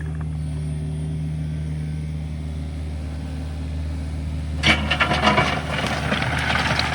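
Engine of a heavy earth-moving machine running steadily with a low, even hum. About four and a half seconds in, a loud burst of clattering and scraping breaks in and continues.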